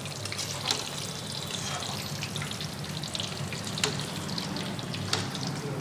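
Food sizzling as it fries in hot oil in a pan, with scattered small crackles over a steady low hum.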